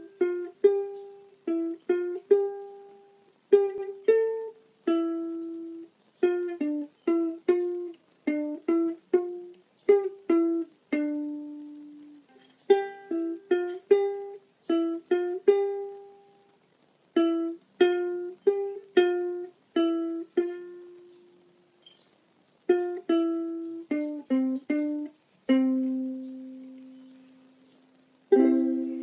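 A plucked string instrument plays a slow solo melody as a song intro: single notes picked one at a time, each ringing and fading, in short phrases with brief pauses. Near the end a lower note is left to ring longer.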